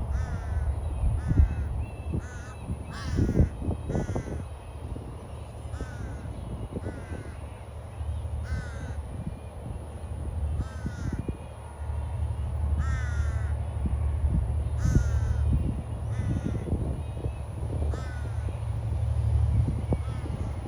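A crow cawing over and over, short harsh calls about once a second, over a steady low rumble that grows stronger in the second half.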